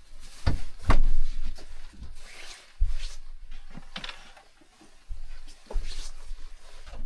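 A string of knocks and thumps, roughly one a second and the loudest about a second in, as things are handled and set down.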